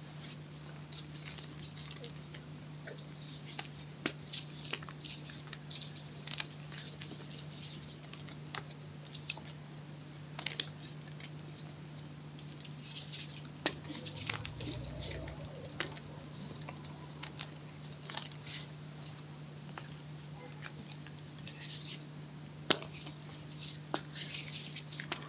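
Chalk being crunched: irregular bursts of crisp crackling and sharp snaps, over a steady low hum.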